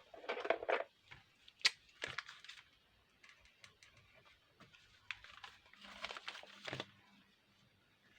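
Crinkling and rustling of craft material being handled, in short bursts with a few sharp clicks, one of them louder about one and a half seconds in.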